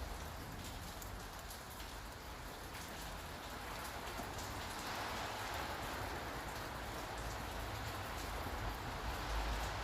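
Steady rain falling on hard surfaces, with scattered drop ticks, over a low city rumble that grows louder near the end.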